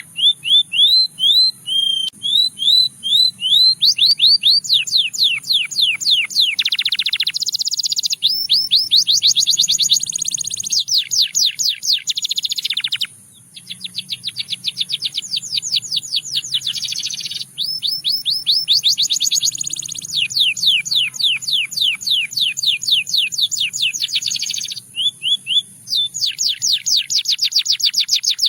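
Canary singing a long song of fast repeated notes, strung into trills that switch to a new note type every few seconds, with a brief pause about thirteen seconds in.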